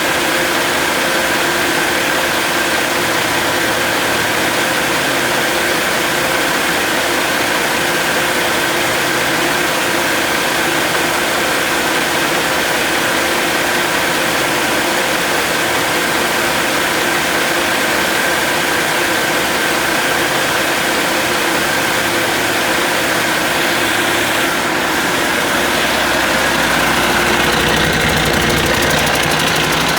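2005 Cummins ISX inline-six diesel engine running steadily, getting slightly louder and deeper near the end.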